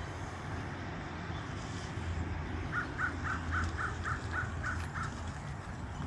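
A bird calling in a quick run of about nine harsh, evenly spaced notes, about four a second, over a steady low outdoor rumble.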